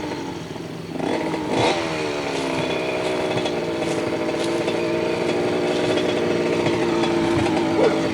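Dirt bike engines running at speed, revving up sharply about a second in, then their pitch easing slowly down as the riders go on.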